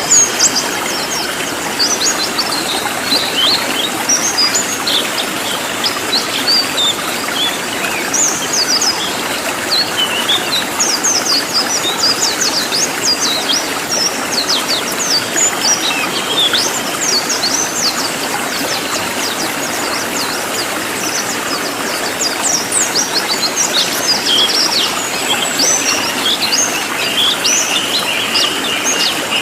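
Cililin songbird singing a dense, fast string of high, sharp, downward-sweeping chirps, loud and packed close together, over a steady background hiss.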